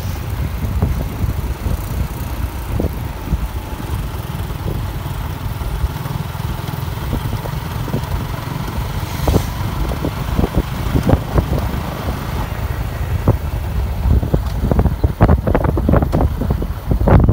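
Motorcycle on the move, heard from the bike: a steady low engine and road rumble with wind buffeting the microphone, and a run of knocks and rattles in the last few seconds.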